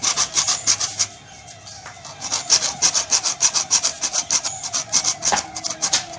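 Rhythmic back-and-forth rasping of a hand tool working material, about four strokes a second, with a short pause after about a second.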